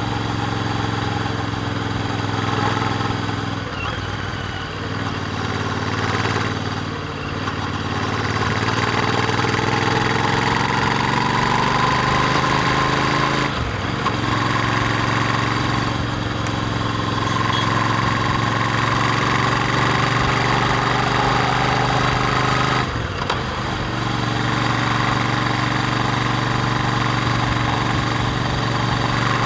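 Royal Enfield Interceptor 650's parallel-twin engine through its stock exhaust, running under way with its pitch rising and falling. The note breaks off briefly three times, like gear changes.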